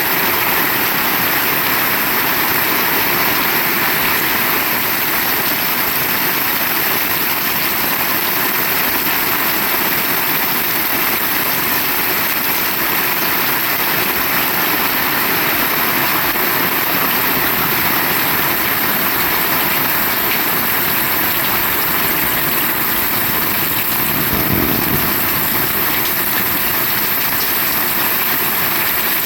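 Heavy rain falling steadily, a loud even hiss, with a brief low gust-like rush about three-quarters of the way through.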